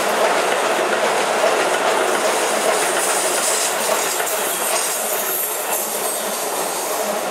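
Shin-Keisei 8900 series electric train passing at speed, its wheels clattering over the rail joints. The sound eases a little as the last car goes by.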